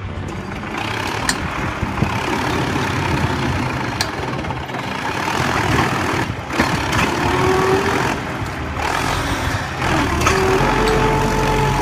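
A vehicle engine working hard under load, pulling a stump, with its pitch climbing in places and a few sharp clicks.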